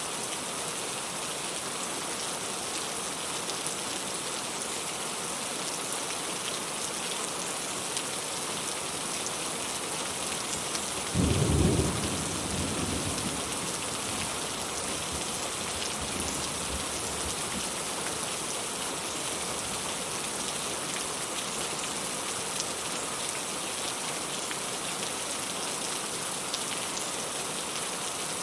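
Steady rain falling, an even hiss. Partway through, a single low rumble of thunder rises out of it and fades away over a couple of seconds.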